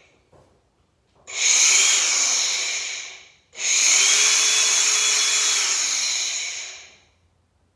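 DeWalt DCG413B brushless cordless angle grinder run up twice, spinning freely with a high steady whine. The first run lasts about two seconds; the second, longer run lasts about three seconds. Each time the trigger is let go it spins down quickly under the tool's brake.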